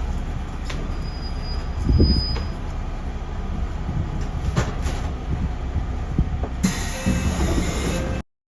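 Interior noise of a JR Central 311 series electric train: a steady low rumble with scattered clicks and knocks. About six and a half seconds in a loud hiss begins, and the sound cuts off abruptly shortly after eight seconds.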